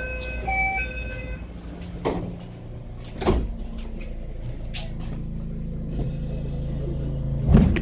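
Narrow-gauge electric train running: a steady low hum from inside the car, with sharp knocks of the wheels over rail joints about two, three and seven and a half seconds in, the last the loudest. A few short beeping tones sound in the first second and a half.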